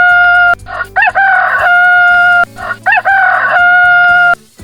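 Rooster crowing cock-a-doodle-doo again and again, loud: each crow has a short broken start and then a long held note. One crow ends about half a second in, and two more follow.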